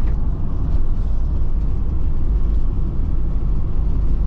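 Steady low rumble of engine and road noise inside a motorhome's cab while driving along.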